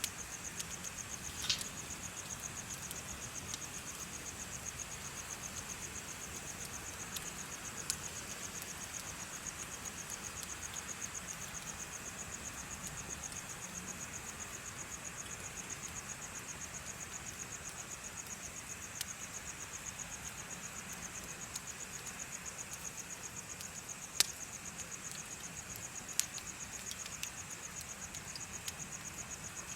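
Crickets chirping in a steady, rapid high trill, over which a wood bonfire gives a few sharp crackling pops, the loudest two near the end.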